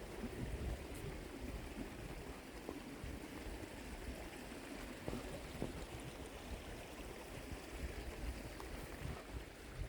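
Steady rush of running water from a hill burn, with wind rumbling on the microphone.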